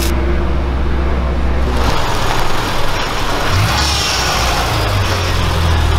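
Subaru Impreza sedan's flat-four engine running at low speed as the car rolls into a garage bay. The engine tone changes about two seconds in, then settles into a steady drone near the end.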